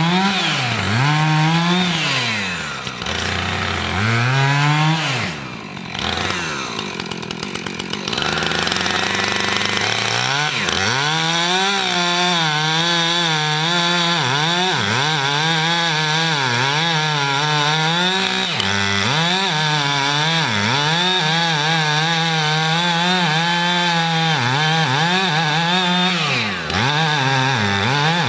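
Chainsaw cutting into a cherry tree trunk during felling. The engine revs up and down for the first few seconds, eases off about six to eight seconds in, then runs at high revs under load with a wavering pitch as the chain bites, dipping briefly near the end.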